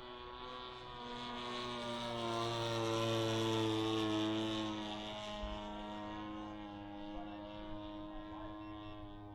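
Giant-scale RC Piper Cub's G26 two-stroke gas engine turning an 18x8 propeller in flight, a steady drone that grows louder to a peak a few seconds in as the plane passes, dipping slightly in pitch, then easing off.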